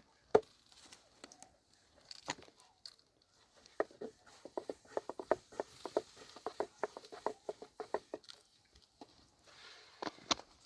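Irregular light taps and knocks, a sharp one near the start and a dense quick run of them from about four to eight seconds in.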